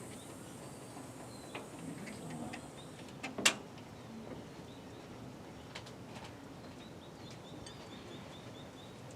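Quiet outdoor ambience broken by a single sharp knock about three and a half seconds in, with a few small clicks and a quick run of faint, high bird chirps near the end.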